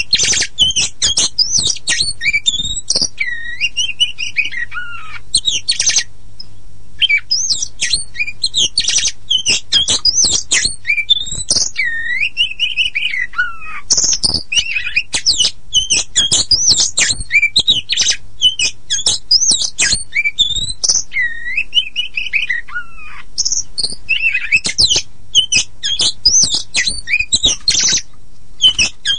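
Oriental magpie-robin of the black-and-white kacer poci form singing without pause: a fast, varied run of whistles, chirps and sharp notes with long swooping falling whistles every few seconds.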